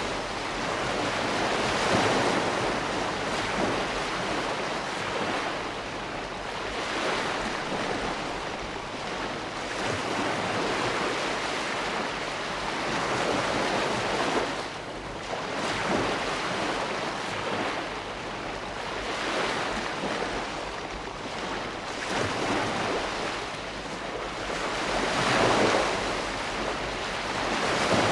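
Ocean waves breaking and washing up a shore, a continuous surf noise that swells and eases every few seconds as each wave comes in.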